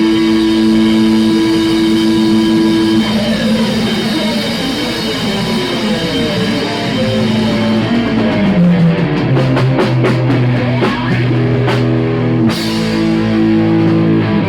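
Rock band playing live: electric guitar and bass hold sustained notes that slide in pitch partway through, with drum kit hits and fills in the second half. The music stops suddenly at the end.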